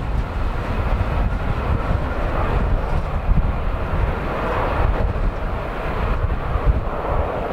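Jet engine rush of a Boeing 787-9 Dreamliner, swelling and easing, under heavy gusts of wind buffeting the microphone.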